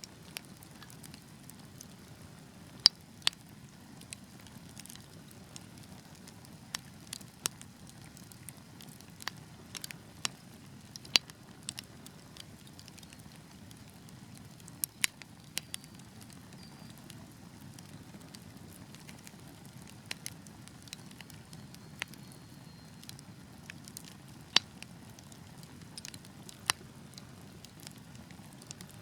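Wood fire crackling: a soft steady low rustle of burning logs with irregular sharp pops and snaps, a handful of them much louder than the rest.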